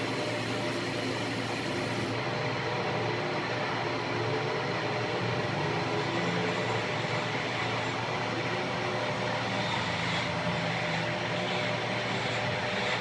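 A machine running steadily, with a constant whir and a few faint steady tones.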